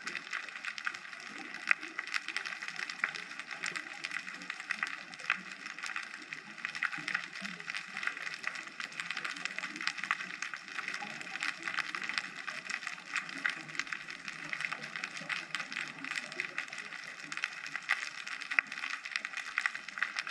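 Underwater ocean ambience heard through a GoPro housing: a steady, dense crackle of many tiny clicks and pops, mostly high-pitched, with no low rumble.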